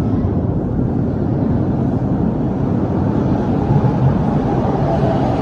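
TTC subway train running in the station: a steady low rumble.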